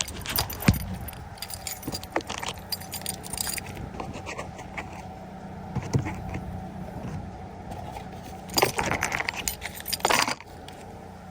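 Small hard objects clinking and jangling as things are handled, with many sharp clicks throughout and two louder, brief noisy bursts near the end.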